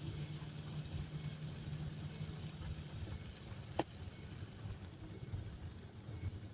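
Car engine idling, heard from inside the cabin: a steady low hum that loosens into a rougher rumble about three seconds in, with a single sharp click a little past the middle.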